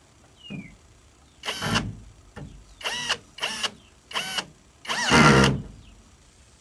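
Goat bleating, a run of about six short calls, the last one the longest and loudest. Faint high chirps, like chicks peeping, come between them.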